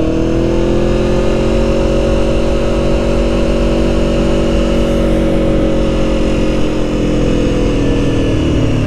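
Aprilia Tuono motorcycle engine under way: the engine note rises in the first second as it accelerates, then holds steady at cruising speed and drops slightly near the end.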